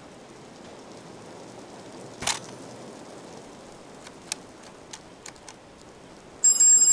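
Push-button telephone being handled over faint steady rain: a brief sharp clatter about two seconds in, then a few light clicks of the keypad buttons, and near the end a loud, high electronic ringing tone begins.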